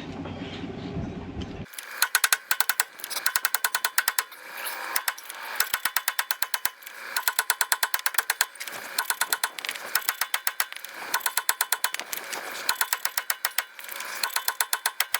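Hand ratchet wrench clicking in repeated runs of rapid, even clicks, each about a second long with short pauses between, as bolts are turned on a truck's front suspension. The clicking starts suddenly just under two seconds in, after a low steady background hum.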